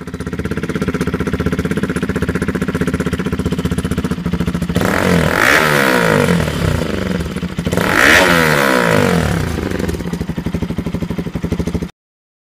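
Single-cylinder motorcycle engine of a Bajaj Pulsar RS 200, heard through an aftermarket slip-on exhaust, idling and then blipped twice, about 5 and 8 seconds in, each rev rising and falling back to idle. The sound cuts off suddenly near the end.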